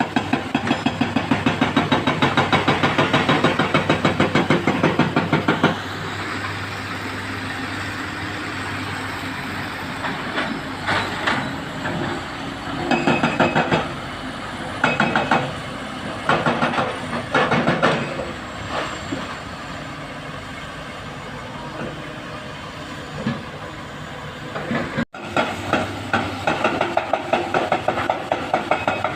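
Heavy diesel machinery at work: the engines run with a fast rhythmic pulsing, settle into a steadier drone with several short bursts of clatter in the middle, and then pulse again after an abrupt break near the end.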